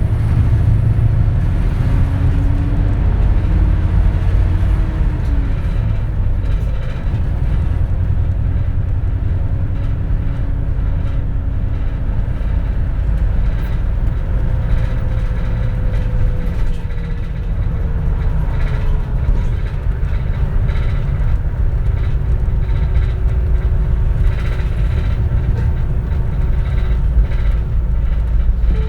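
Running noise of a 2004 compressed-natural-gas (CNG) city bus, heard from inside the cabin: a steady heavy rumble with the engine note rising as the bus pulls away, then falling and sliding lower again as it eases off, with light rattles over the top.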